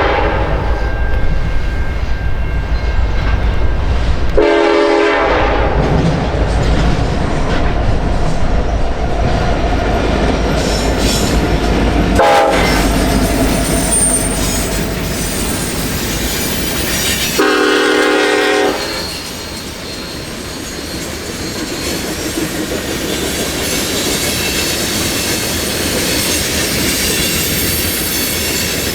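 A train passing close by: the locomotive's horn sounds three blasts, one at the start, one about four seconds in and a longer one about seventeen seconds in, over the diesel locomotive's deep rumble. After the last blast the rumble gives way to the steady rolling clatter of the cars going by.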